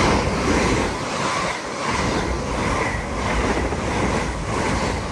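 LNER Azuma (Hitachi Class 800-series) passing through the station, a steady rush and rumble of wheels on rails with a regular beat of about two pulses a second as its bogies go by.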